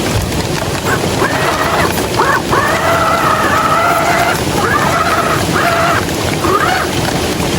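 Steady hiss of heavy rain and rushing water, with an intermittent whining tone that comes and goes in roughly one-second stretches, some gliding upward as they begin.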